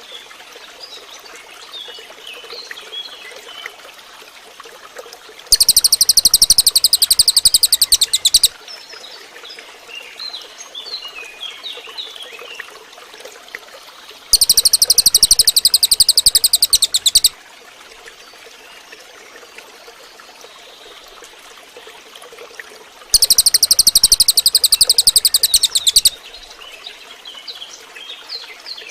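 Cililin bird song: a loud, very rapid buzzing trill about three seconds long, given three times about nine seconds apart, with softer high chirps and twitters in between.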